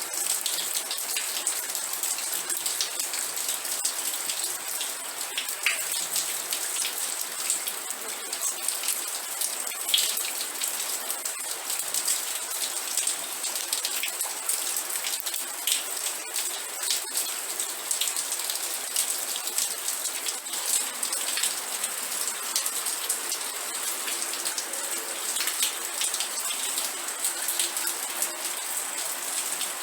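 Steady rain falling: a dense, even patter of drops with many scattered sharper drop hits.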